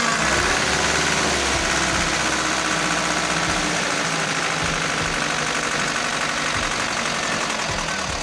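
Mazda T3500 truck engine running steadily at idle with a knocking clatter, just after being started.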